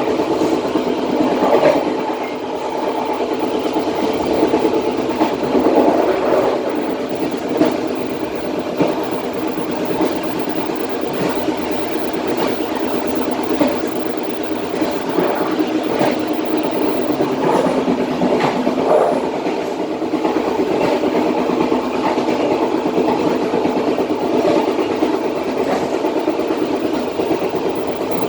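Passenger train running at speed, heard from the rear of the last carriage: a steady rumble of wheels on rail with frequent clicks and knocks from the wheels and bogies.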